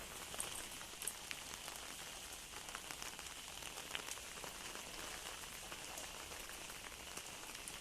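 Heavy rain falling steadily, a continuous hiss with scattered drops ticking sharply on nearby surfaces.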